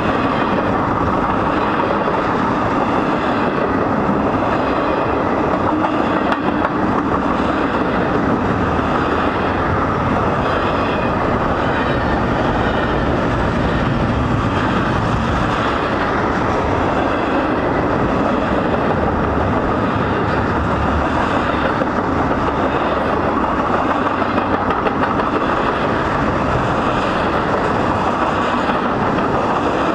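Double-stack intermodal freight cars rolling past at close range: a steady, loud rumble and clatter of steel wheels on the rails.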